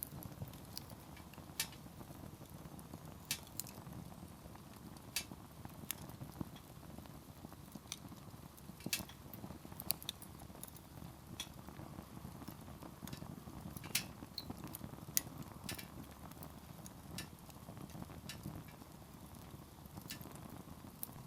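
Wood campfire burning, with firewood crackling and popping in sharp irregular snaps, a few louder pops among many small ones, over a steady low background of the fire.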